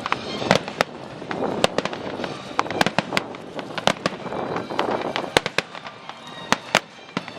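A string of sharp cracks and pops at irregular intervals, several a second, over a steady background hiss.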